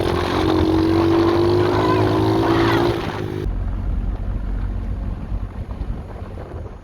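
Small 125cc pit bike engine running hard with wind rushing over the microphone, its steady tone rising slightly in pitch. About three and a half seconds in it cuts off abruptly, leaving quieter wind noise and a low hum.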